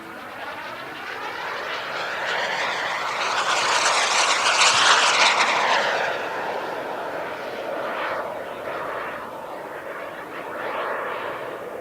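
RC model Messerschmitt Me-163's JetCat P200 turbine making a flyby: a rushing jet noise that swells to its loudest about five seconds in and fades away, with a smaller swell near the end.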